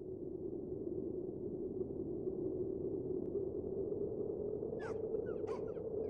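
A steady low rushing drone, joined about five seconds in by a quick series of bird calls: short cries that glide up and down in pitch.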